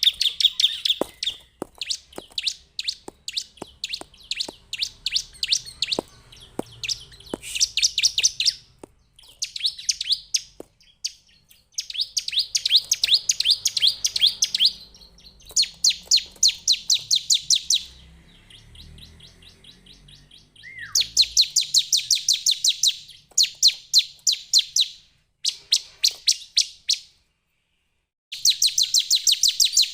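Bar-winged prinia singing: rapid trains of high, sharp notes in bursts of one to three seconds, repeated with short pauses.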